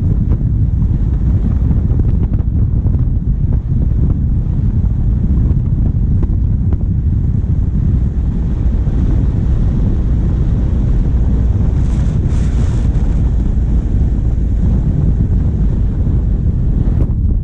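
Wind buffeting the microphone of a bonnet-mounted camera on a moving vehicle, with the vehicle's diesel engine running underneath.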